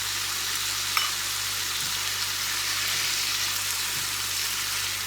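Shrimp in chermoula marinade sizzling steadily in a pan over a high gas flame, which keeps them searing rather than stewing in their own liquid. A single light utensil click comes about a second in.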